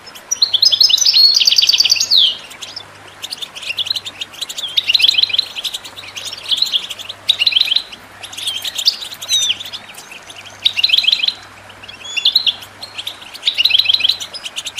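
A group of European goldfinches, given as females, twittering: short bursts of fast, high chirps that come about once a second and sometimes overlap.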